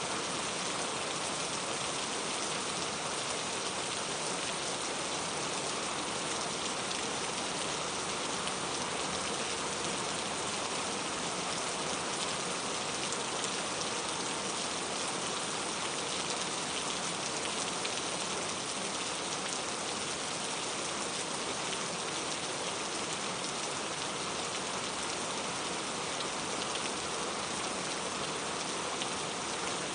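Steady rain falling, a dense even hiss of drops on surfaces with no breaks or swells.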